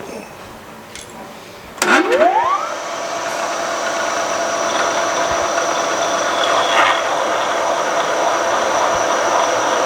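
Milling machine spindle starting up about two seconds in, its whine rising in pitch over about a second, then running steadily as a 7/8-inch drill bit cuts into a hardened steel crankshaft.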